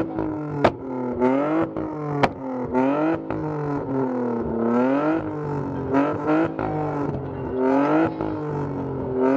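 BMW E30's M52 straight-six revved in quick repeated blips, the engine note rising and falling about once a second. Several sharp exhaust pops and bangs crack out between the blips: backfires of the kind that shoot flames from the exhaust.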